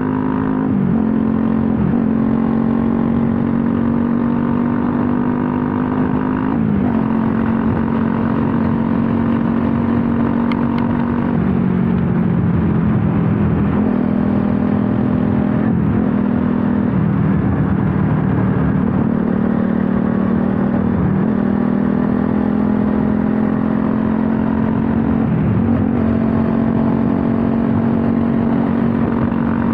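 Bajaj Pulsar NS200's single-cylinder engine running under way at steady cruising revs. Its note dips briefly and comes back every few seconds, and sits lower for a few seconds around the middle.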